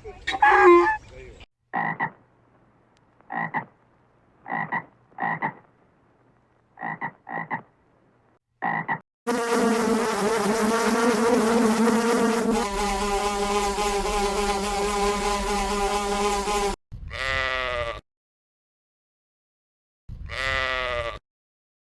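A sequence of edited animal calls. It runs from a string of short separate pips, to a long, continuous pitched call lasting about seven seconds, to two short calls near the end, with dead silence between the cuts.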